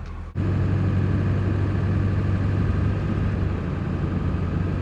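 The truck's 7.3 Powerstroke turbo-diesel V8 running steadily as the truck drives on, a constant low engine hum that starts abruptly about a third of a second in.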